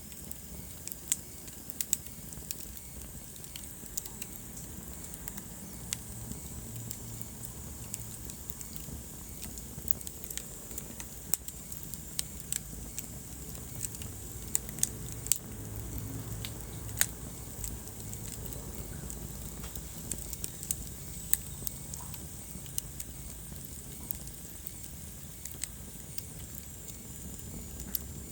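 Wood fire burning in a fireplace: irregular sharp crackles and pops over a low steady rumble of flame.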